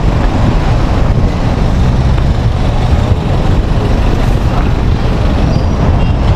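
Steady, loud rumble of heavy road traffic passing close by.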